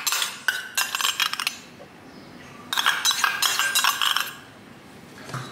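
Metal spoon scraping and clinking against a small stainless steel bowl as thick sauce is scooped out, in two runs of a second or more with a short pause between.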